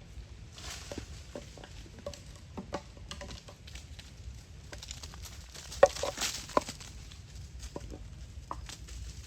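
A troop of monkeys moving and handling things, making scattered light taps and rustles, with a cluster of short squeaks and a sharp click about six seconds in.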